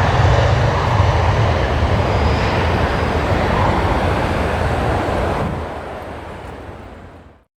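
Airliner-sized aircraft engines running as a plane passes, a steady loud rumble and roar that fades away over the last two seconds and then cuts off.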